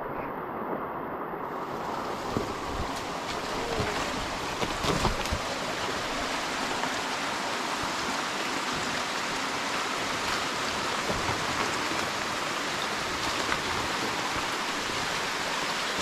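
Steady rushing water in a rainforest, with a few low thumps between about two and five seconds in.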